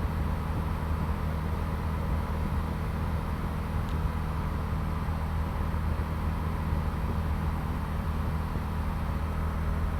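Piper PA-38 Tomahawk's four-cylinder Lycoming O-235 engine and propeller running steadily at takeoff power in the initial climb, an even drone.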